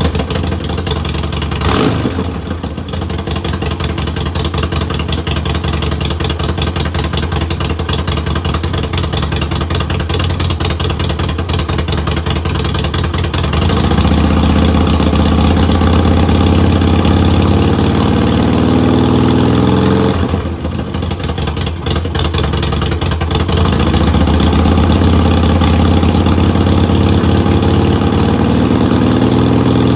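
Harley-Davidson Sportster 1200's air-cooled V-twin running after a cold start following a long lay-up. It idles at first; about halfway through the revs are raised, drop back briefly, and then rise again.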